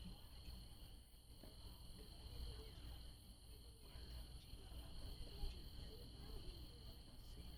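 Faint, steady chorus of night-singing insects, a continuous high trill at two pitches, over a low rumble.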